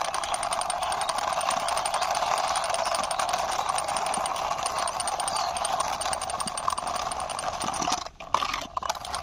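Plastic wheels of a hand-pushed toy police bike rolling and rattling over a surface in a steady run, with a brief pause about eight seconds in.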